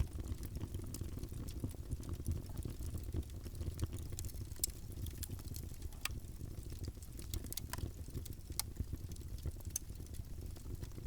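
Wood fire in a fireplace crackling: a steady low rumble of flames with irregular sharp pops and snaps, a few louder ones in the middle of the stretch.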